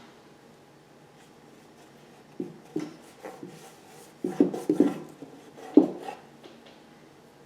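Art materials being worked at a tabletop: a Stabilo pencil scratching and rubbing on paper, with a few short light knocks about two and a half, three, four and a half, and six seconds in.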